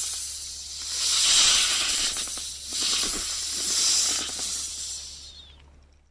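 A snake hissing: a run of long, breathy hisses that swell and fade, dying away near the end.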